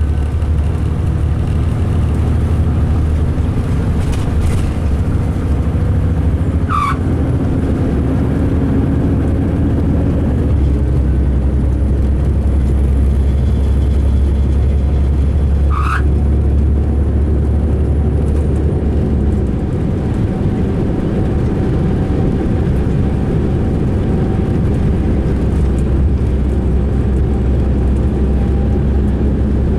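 Inside a 2005 MCI D4500 coach under way: a steady, loud, rumbly low engine drone with road noise, with two brief sharp sounds, about a quarter and about halfway through.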